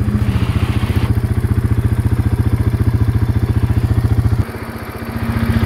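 Quad (ATV) engine idling with a fast, even putter; about four seconds in it drops in loudness, then picks up again at a slightly higher pitch near the end.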